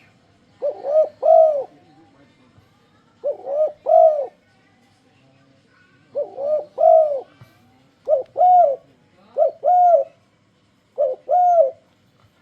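Spotted dove (tekukur) cooing, in phrases of two or three rounded, rise-and-fall coos, repeated about six times with short pauses between. This is the turtledove call used as a luring sound to draw other doves into calling.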